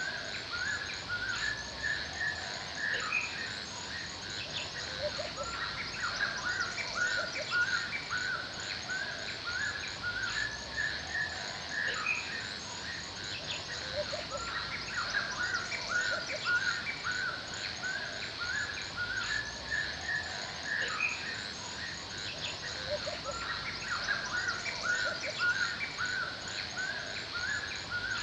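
Forest birds calling: a steady stream of short, repeated chirps, over a continuous high-pitched chorus of insects.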